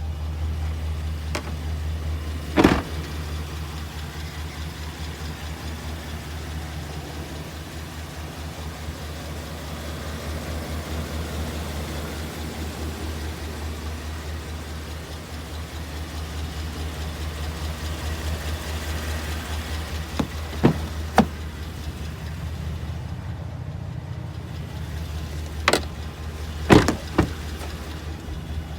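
Chevrolet Silverado 2500HD pickup engine idling with a steady low hum. A few sharp knocks come over it: one early, two about twenty seconds in, and a cluster near the end.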